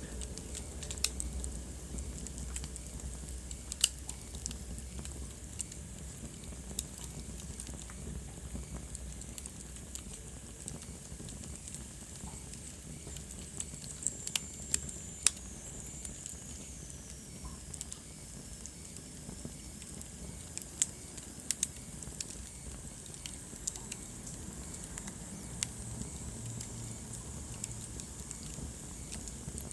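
Wood fire burning in a fireplace: irregular sharp crackles and pops over a steady low rumble of the flames, with a faint high whistle falling in pitch about halfway through.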